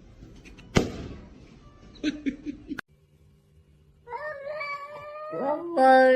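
A cat yowling: a sharp knock about a second in and a few short cries, then from about four seconds a long drawn-out yowl that rises and holds steady.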